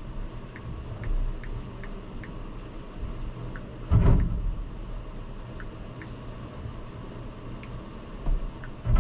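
Steady low rumble of a VIA Rail passenger train, with faint scattered ticks and a few heavy thumps, the loudest about four seconds in and two more near the end.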